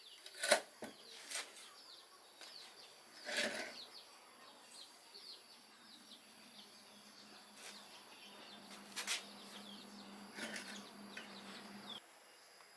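A few sharp clicks and knocks, the loudest about half a second in, over faint bird chirps and a steady high insect drone. A low hum comes in during the second half and cuts off suddenly near the end.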